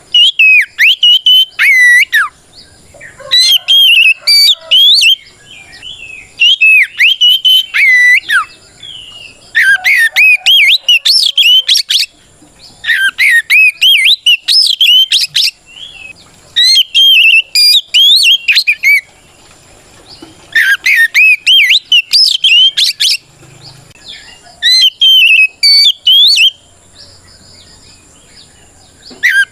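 Oriental magpie-robin (kacer) singing its loud, full challenge song, the kind used to call out a rival. It comes in rapid whistled phrases of two to three seconds with short pauses between them, about eight phrases in all.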